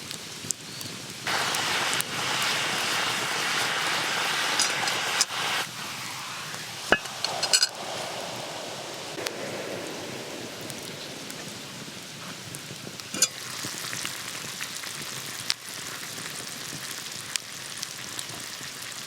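Food sizzling in a hot pot over a campfire. The sizzle jumps up about a second in, stays strong for about four seconds and then settles to a quieter sizzle, with a few clinks of utensils on the pot.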